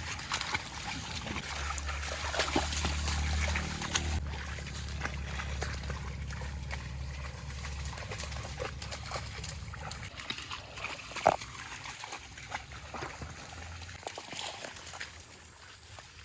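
Water sloshing and splashing in a marsh, with scattered small clicks and a low steady hum through the first half.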